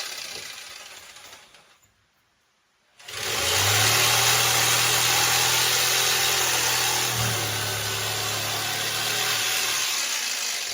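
A power tool running with a steady hum and hiss; it dies away, starts up again about three seconds in, runs steadily, and eases off near the end.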